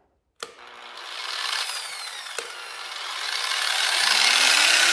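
An electric grinder with a 120-grit wheel clicks on about half a second in, then grinds against a painted bicycle frame to strip the paint. The noise builds over the first few seconds and stays loud.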